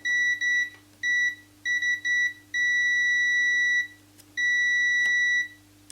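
Digital multimeter's continuity beeper sounding as the probes touch the LCD panel's VDD line and ground: a few short broken beeps, then two long steady beeps of about a second each. The continuous beep shows the VDD line is shorted to ground.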